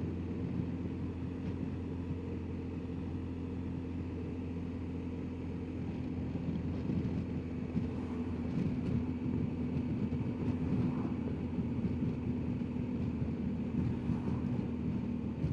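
BMW R1250GSA boxer-twin engine running steadily under way, with wind and road noise, getting a little louder about halfway through.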